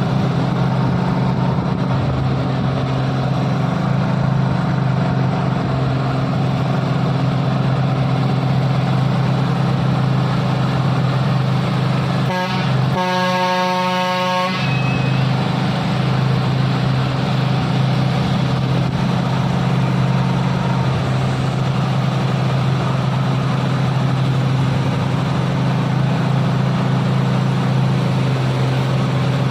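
Isuzu truck's diesel engine running steadily under load on a climb. About halfway through, a vehicle horn gives a short tap and then a toot of about a second and a half.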